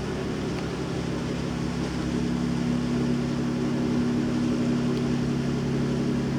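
A steady low engine drone holding several even tones, running without a break.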